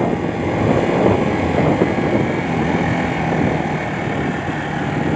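Motorcycle engine running steadily while being ridden in low gear.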